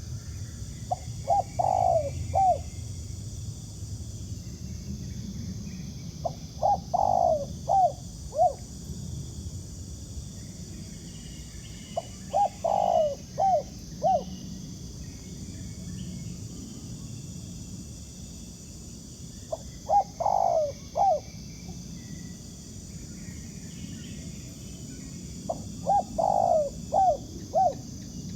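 Spotted dove cooing: five phrases of a few short coos each, about six seconds apart. A steady high-pitched hum runs underneath.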